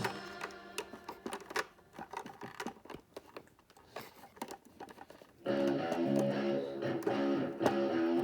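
Small hard plastic Lego pieces clicking and tapping as they are handled, in a run of sharp irregular clicks. Partway through, background guitar music starts up and covers the clicks.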